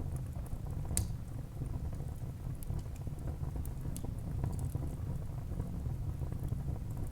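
Wood fire burning in a fireplace: a steady low rumble of the flames with scattered crackles and pops, the sharpest pop about a second in and another about four seconds in.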